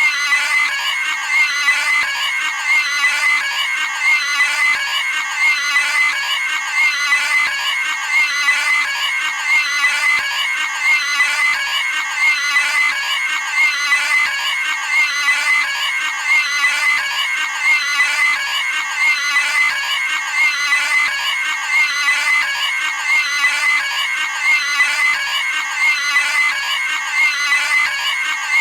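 Cartoon pig scream sound effect looped over and over: a high, wavering squeal repeated about every second and a half with no pause between repeats.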